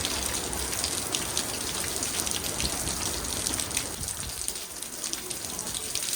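Heavy rain falling, with many separate drops pattering on a surface over a steady hiss of rain.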